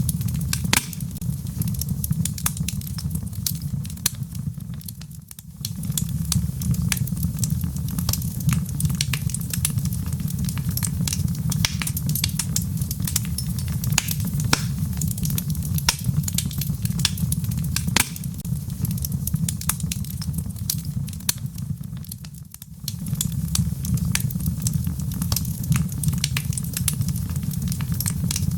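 Wood fire in a fireplace crackling and popping over a steady low rumble. It dips briefly quieter twice, about five seconds in and again about twenty-two seconds in.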